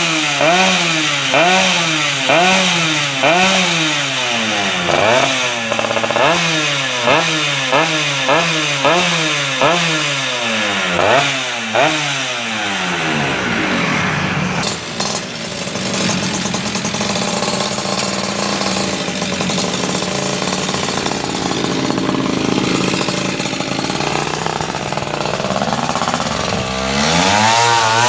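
Yamaha RX-King two-stroke motorcycle engine revving through an aftermarket exhaust. For about the first half it is blipped over and over, roughly once a second, each blip rising and falling in pitch. It then runs at a steadier speed before revving up again near the end.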